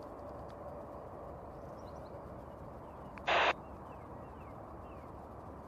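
Handheld VHF transceiver giving a short hiss-like burst, about a third of a second long, a little over three seconds in, over a steady low background hiss.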